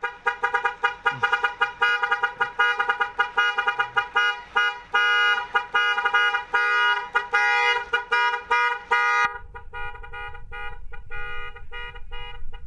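Truck horn sounding at one steady pitch in rapid, rhythmic blasts, several a second. About nine seconds in the blasts get quieter and a low engine rumble comes in under them.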